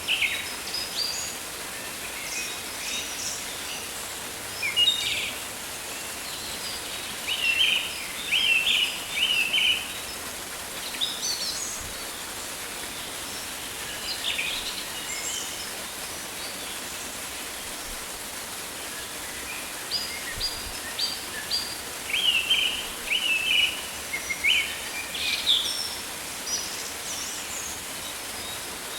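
Rainforest ambience: bird calls in quick groups of short, repeated chirps over a steady hiss, with a lull in the calls around the middle.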